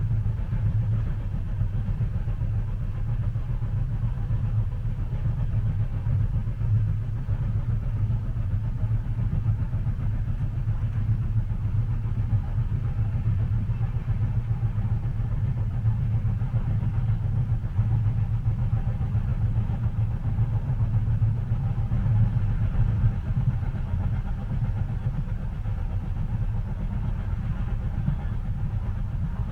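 Steady low rumble of a moving train heard from inside a passenger car, even in level throughout.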